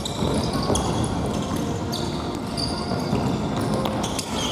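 Futsal being played on an indoor gym court: the ball being kicked and bouncing on the floor, with short high squeaks from players' shoes.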